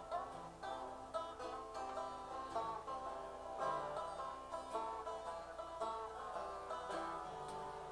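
Live acoustic music: plucked string instruments playing an instrumental passage of quick, picked notes between sung verses.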